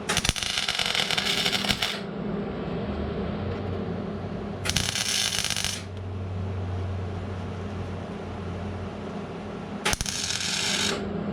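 Welder laying weld on sheet-metal patch panels in three short bursts of one to two seconds each, filling holes in a patch on a car's rusted quarter panel. A steady low hum runs underneath.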